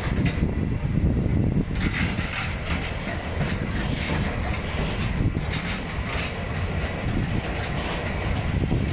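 Freight train of curtain-sided wagons passing slowly and close by. The wheels rumble steadily on the rails, with irregular clacks.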